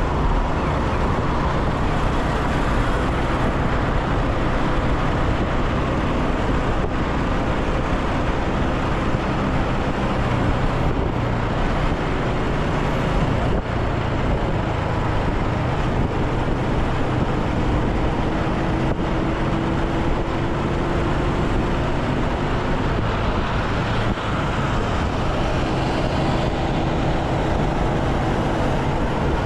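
Motorcycle being ridden through city traffic: its engine running steadily under road and traffic noise, with a faint slowly rising tone in the middle.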